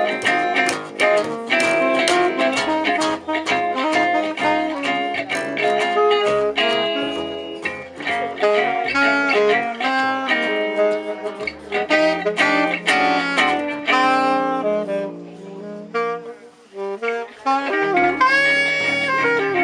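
Gypsy jazz (jazz manouche) band playing an instrumental passage: a held lead melody over evenly plucked rhythm guitar and a walking bass line. The band thins out briefly about three-quarters of the way through, then comes back in.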